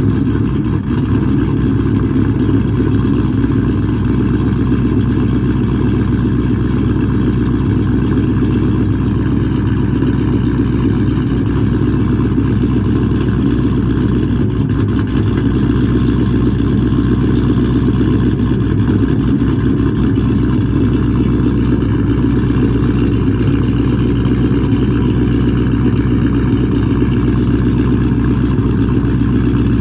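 2011 Ram 1500's 5.7 L Hemi V8, with a stage 3 cam, idling steadily after a cold start. It runs through long-tube headers and an X-pipe, with no catalytic converters and no mufflers.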